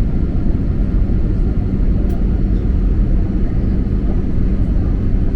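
Airliner cabin noise on the descent to landing: a steady low rumble of engines and rushing air, with a faint steady hum.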